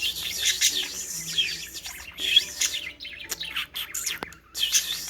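Budgie warbling and chattering: a fast run of high chirps and twitters, broken by two short pauses.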